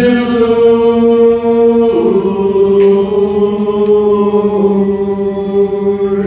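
Men's barbershop chorus singing a cappella, holding a long sustained chord on the word 'wide', then moving down to a new held chord about two seconds in, before cutting off near the end.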